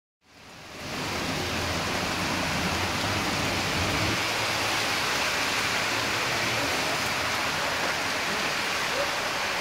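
Heavy rain pouring steadily onto a flooded street. A car driving through the floodwater adds a low sound beneath the rain that fades away about four seconds in.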